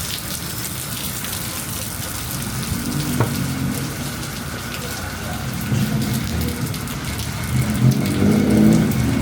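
Heavy rain hissing steadily, with a motor vehicle's engine running underneath that grows louder over the last few seconds.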